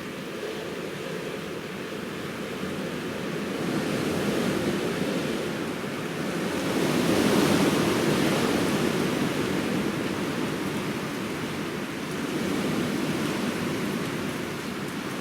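Steady outdoor rushing noise that swells and eases, loudest about halfway through, with no distinct events.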